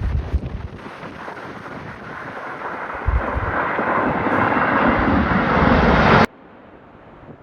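Jet airliner's engines rushing louder and louder as it comes past on its landing approach, with gusty wind buffeting the microphone. The sound cuts off suddenly about six seconds in.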